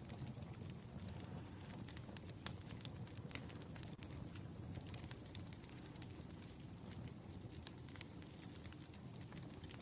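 Wood fire burning, with irregular sharp crackles and pops from the firewood over a soft low rumble of the flames.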